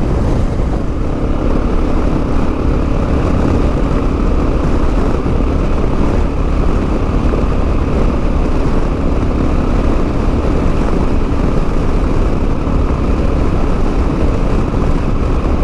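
Motorcycle riding at a steady road speed: an even engine drone under heavy wind rush on the microphone.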